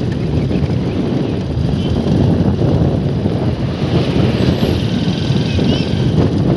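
Fast-flowing water rushing past with a loud, steady low roar.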